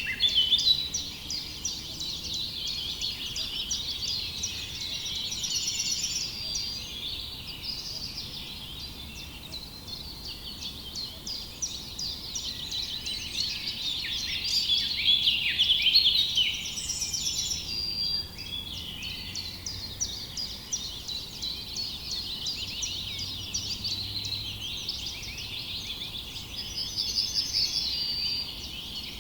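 Many small songbirds chirping at once: a dense, continuous chorus of short high chirps, with a brief buzzy trill now and then.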